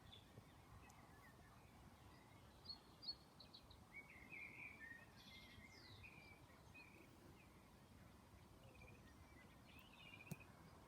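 Near silence, with faint birdsong: a few short chirping phrases over a low, steady background hiss.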